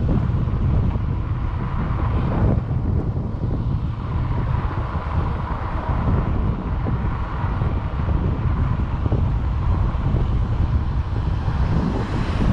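Wind buffeting the microphone of a camera mounted on a moving e-bike: a loud, continuous, uneven low rumble, with faint riding noise under it.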